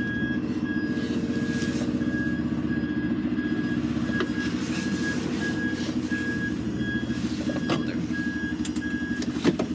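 Lorry reversing: its reversing alarm beeps about twice a second over the steady running of the diesel engine, then stops shortly before the end, followed by a sharp knock.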